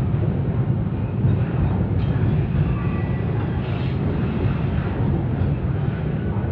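Container freight train rolling past, a steady low rumble of wagons on the rails.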